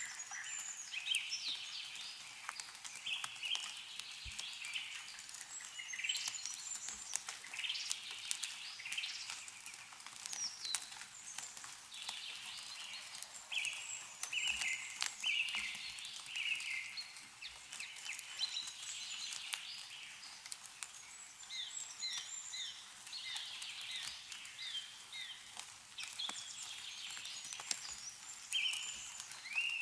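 Small songbirds chirping and calling almost without pause in short repeated phrases, with scattered light ticks of meltwater dripping from snow-laden trees.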